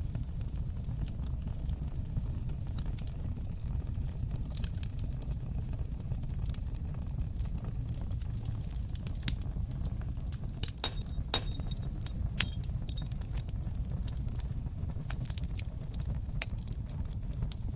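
Wood fire crackling in a fireplace: irregular sharp pops and snaps over a low steady rumble from the flames, the pops thickest in a cluster in the middle, with one sharper pop about twelve seconds in.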